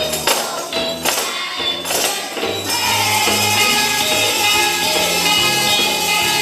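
Tambourines jingling with music: separate shakes and hits at first, then about two and a half seconds in a continuous shaking over held notes.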